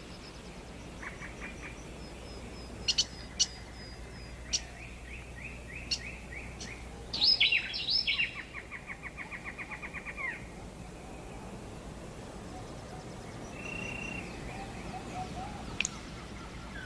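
Rainforest ambience of assorted bird calls and chirps: short sharp chirps, rapid pulsed trills about a second in and again near eight seconds, and a loud cluster of calls about seven seconds in.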